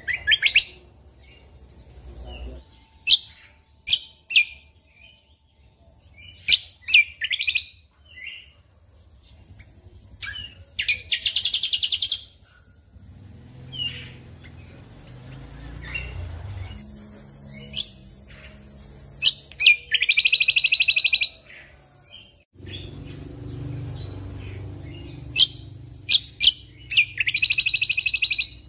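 Greater green leafbird (cucak kombo) singing: a series of sharp, high whistled notes broken by three rapid trilled phrases, each over a second long.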